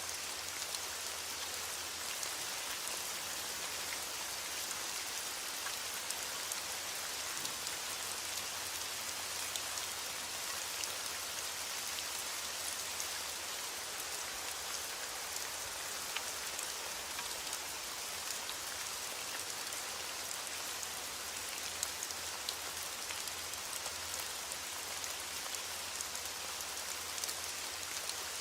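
Steady rain falling, an even hiss with scattered close drops ticking.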